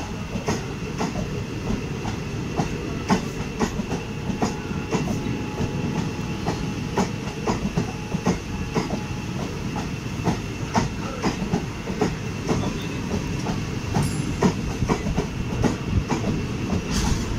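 Passenger train coach rolling along the track: steady wheel rumble with frequent irregular clicks as the wheels pass over rail joints and points.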